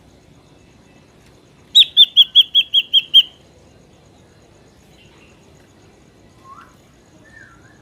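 Ashy drongo calling: a quick run of about eight loud, clear whistled notes lasting about a second and a half. A couple of faint, softer notes follow near the end.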